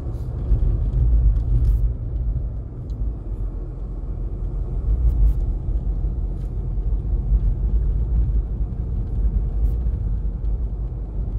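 Steady low in-cabin rumble of a Volkswagen Lupo 3L on the move, its three-cylinder diesel mixed with road noise, with a few faint ticks.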